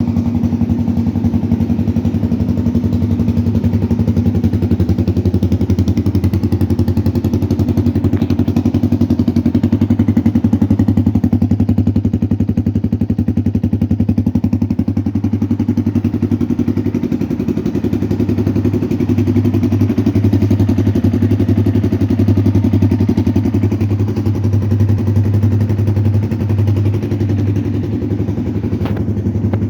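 DM250X motorcycle engine idling steadily through an aftermarket SC exhaust, with an even, rapid pulsing exhaust note and no revving.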